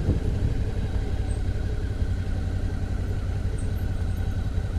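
Suzuki V-Strom motorcycle engine running steadily at low speed on a dirt road, a constant low rumble.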